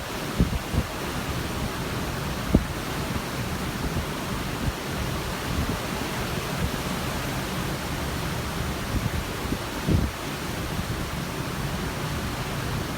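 Steady rush of wind and ocean water heard from a cruise ship, with a few short low thumps of wind buffeting the microphone.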